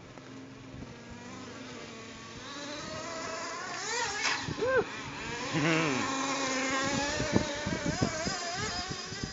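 HPI T3.0 nitro engine in an HPI MT2 RC stadium truck, a small two-stroke glow engine freshly broken in, revving up and down as the truck drives. It grows louder toward the middle. A series of short sharp knocks comes in the last couple of seconds.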